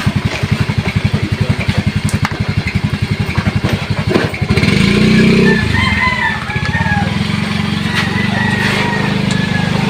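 An engine chugging with an even, fast pulse, which about halfway through changes to a steadier, louder run. A rooster crows in the background.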